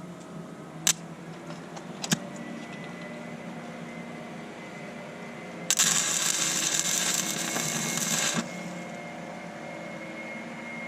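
Amico Power ARC-160D inverter stick welder laying a tack weld: two sharp clicks, then from about six seconds in roughly three seconds of steady crackling arc that cuts off suddenly.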